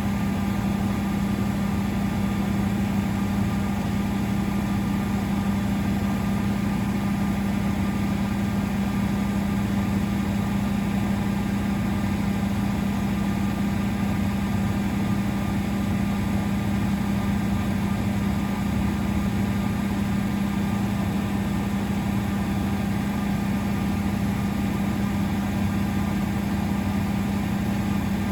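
Miele Novotronic W921 washing machine running with a steady, unchanging hum that holds one constant pitch.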